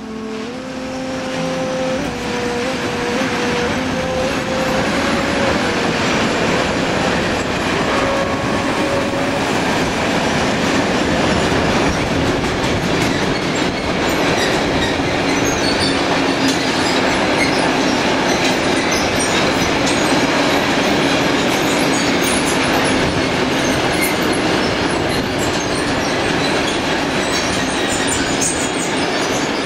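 Passenger train running on the rails: a steady rumble and rattle of wheels and carriage, growing louder over the first several seconds, with a thin wavering whine of wheels on the rails near the start.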